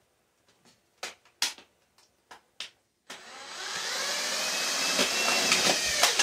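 A few light clicks, then a cordless drill/driver spins up with a rising whine about three seconds in, runs for about three seconds driving a screw into tin-can sheet metal, and stops.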